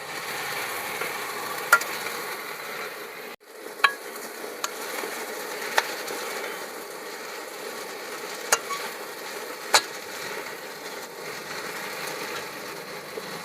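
Chicken sizzling as it fries in oil in a pan, with a spatula clinking against the pan about six times while it is stirred.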